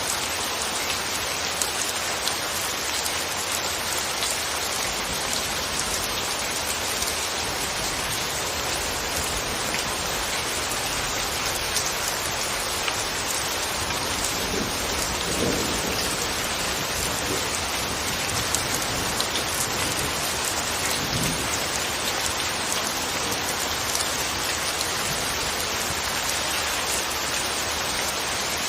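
Steady, gentle rain falling constantly, a continuous even hiss of drops.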